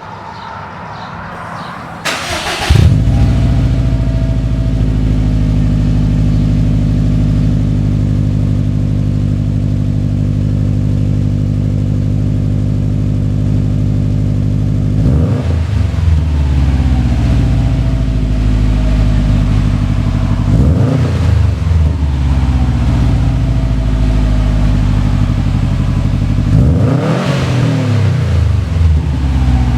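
2015 Subaru WRX STI's turbocharged 2.5-litre flat-four engine breathing through a Cobb cat-back exhaust. It starts about two seconds in with a loud flare, settles into a steady idle, then is revved briefly three times, in the second half.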